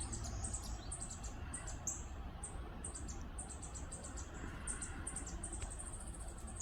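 Northern parula fledgling calling: a rapid, continuous series of short, high, thin notes, several a second, running together into a high steady note near the end.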